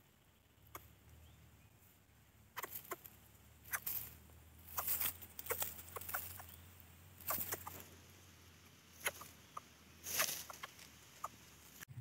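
Short clucking bird calls, a dozen or so at irregular intervals from a couple of seconds in until near the end, over a low steady hum.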